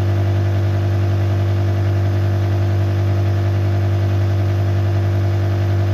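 Steady hum of a shop machine's electric motor running at constant speed, with a strong low drone and no change in pitch or level.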